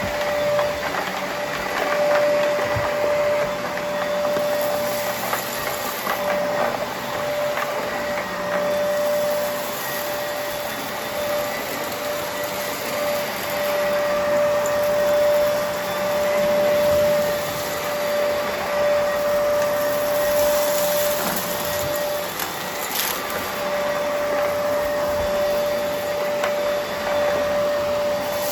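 Vacuum cleaner running with its brushroll on: a steady motor whine over the rush of air, with scattered small clicks and one sharper click about twenty-three seconds in.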